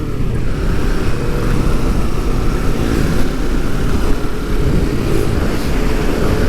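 Kawasaki sport-touring motorcycle running steadily at road speed, with engine and wind noise filling the sound.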